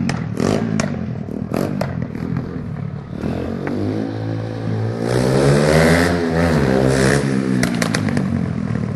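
Vehicle engine running and being revved, the pitch climbing and falling back in the middle, with sharp clicks and clatter in the first couple of seconds.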